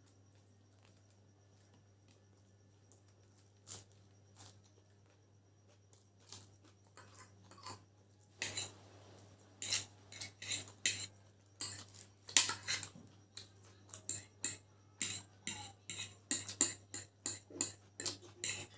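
Cutlery clicking and clinking against a plate of chicken chow mein during eating. A few scattered clicks come first, then a quick, louder run of clicks from about halfway on, over a steady low hum.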